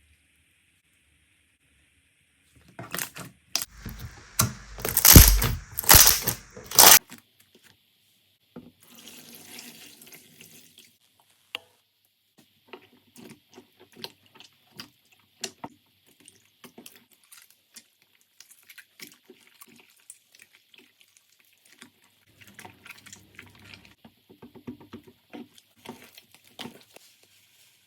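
Slime being squished and pressed by hand: a dense run of loud wet pops and clicks from about three to seven seconds in, then scattered quieter sticky clicks and crackles.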